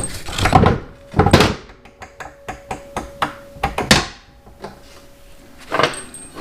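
Hand tools and metal parts knocking and clicking on a motorcycle frame during engine removal: a few heavy knocks in the first second and a half, then a run of small clicks and one more sharp knock about four seconds in.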